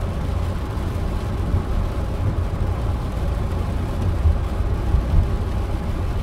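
A car driving, with a steady low road and engine rumble heard from inside the cabin.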